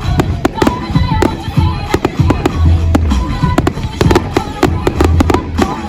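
Fireworks display going off: rapid sharp bangs and crackles, several a second, over deep booming thuds, with music playing underneath.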